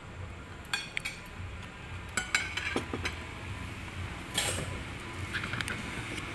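Utensils clinking against plates and bowls during a meal: a scattering of light, irregular clicks and taps.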